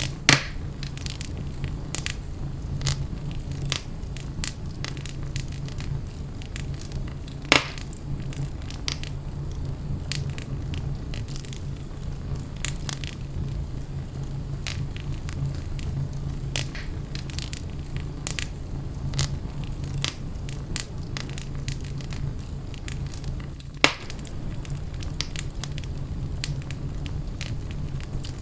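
Wood fire in a fireplace crackling steadily with many small pops over a constant low hum. Three louder sharp pops stand out: one at the start, one about a quarter of the way in, and one near the end.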